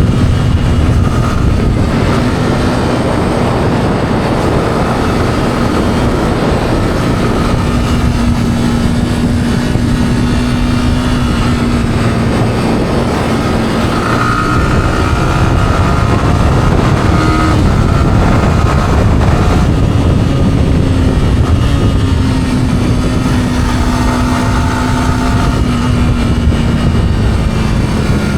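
Yamaha R15's single-cylinder engine with its stock exhaust running at a steady, moderate pace while the bike is ridden, its pitch drifting only slightly. Heavy wind rush on the action camera's microphone runs underneath.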